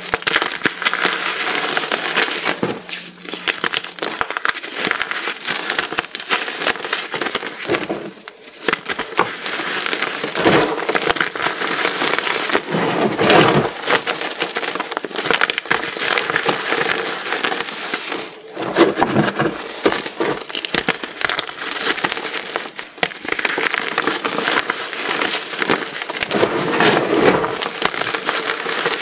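A mass of small dyed, reformed gym chalk pieces being crushed together: a dense, continuous crunching and crackling made of many tiny cracks, with brief lulls every few seconds.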